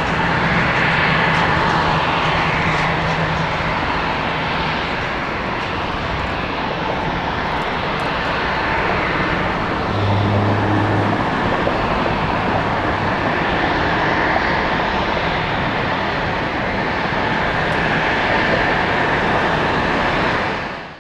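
Airbus A350-900 departing at takeoff power: the steady jet noise of its two Rolls-Royce Trent XWB turbofans, swelling and easing slowly.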